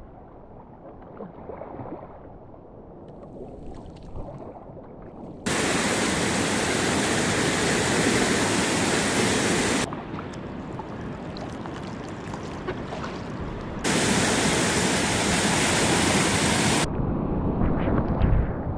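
Rushing whitewater of a tidal rapid, a steady hiss of moving water. It switches suddenly between quieter, muffled stretches and louder, fuller stretches, about five seconds in and again near fourteen seconds.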